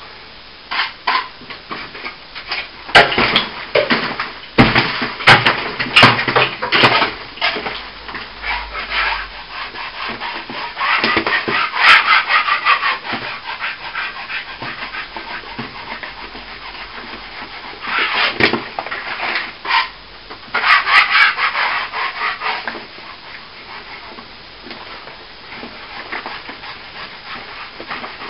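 Hand tool scraping and rubbing on plaster in irregular strokes, with longer continuous scratchy passages about eleven seconds in and again about twenty seconds in.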